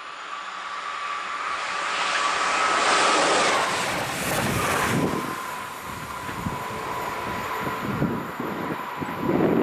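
Electric regional passenger train passing at speed. A rush of wheels and air builds to a peak about three seconds in, with a whine that drops in pitch as the train goes by. After about five seconds, another train is heard approaching from a distance under a steady hum, with wind buffeting the microphone.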